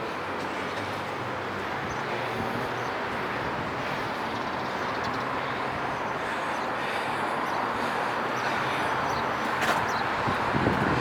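Road traffic on a city street: a steady rush of passing vehicles that slowly swells louder, with a brief sharp click near the end.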